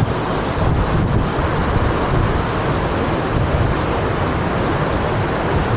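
Ouzoud Falls' water rushing as a steady, loud roar, with low wind rumble on the microphone.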